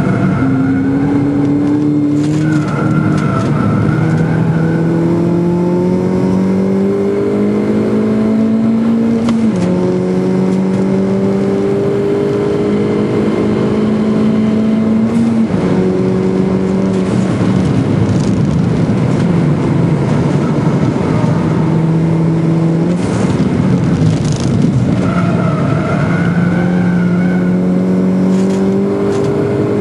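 A Schäfer-tuned Mini's four-cylinder engine at full racing pace, heard from inside the cabin. Its pitch climbs through each gear and drops sharply at the shifts, several times over. The tyres squeal briefly in corners a couple of seconds in and again near the end.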